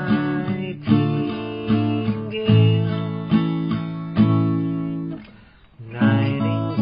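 Acoustic guitar strumming chords in an instrumental break of a song, with a brief gap about five seconds in before the strumming picks up again.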